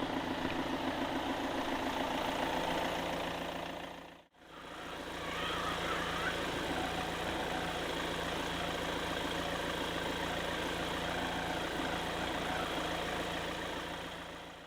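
Diesel engine of a Jungheinrich DFG 425s forklift, a Volkswagen unit, running steadily with an even pulse. It drops out briefly about four seconds in, then carries on and fades away at the end.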